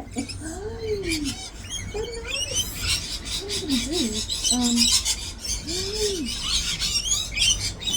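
Wild birds chirping and chattering, with many quick high calls that grow busier about three seconds in, and a few lower calls that rise and fall.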